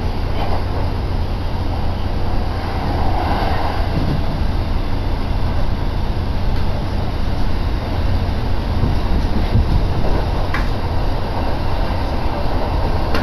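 Steady running noise of an electric train in motion, heard from inside the passenger car, heaviest in the low end. A single short click about ten and a half seconds in.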